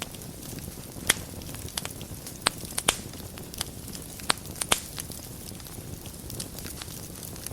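Wood fire burning in a fireplace: a steady low rumble with sharp crackles and pops, most of them in the first five seconds and fewer after that.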